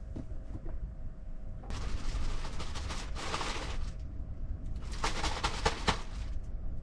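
Water running from a small sink tap in two short bursts, about two seconds and then a second and a half, as dishes are washed with water used sparingly.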